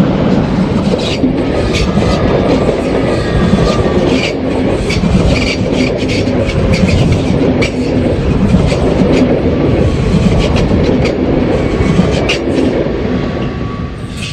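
A train passing close on a curved track, its wheels rumbling and clicking over the rail joints, with a thin squeal from the wheels in the curve. The sound begins to die away near the end.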